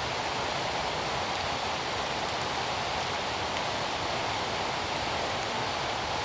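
Steady rushing of flowing water, a river or waterfall, an even unbroken noise.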